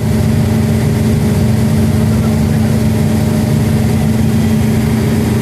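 Detroit Diesel 8V92-TA marine engine, a turbocharged two-stroke V8 diesel, running steadily at an even, unchanging speed with a loud, constant drone.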